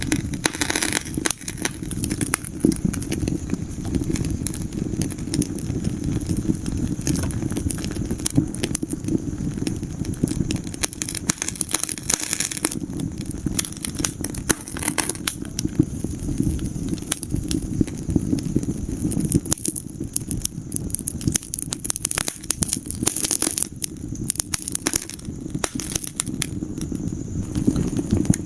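Wood fire burning in a fireplace, with a steady low rumble of flames and dense, irregular crackles and pops of burning logs.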